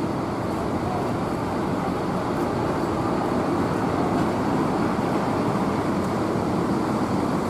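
Heavy rain falling with bus engines running nearby: a steady, even wash of noise.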